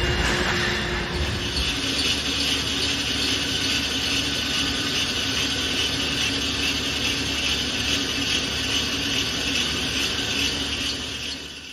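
Machinery running steadily, a dense even mechanical clatter and hiss with a faint steady hum beneath, fading out near the end.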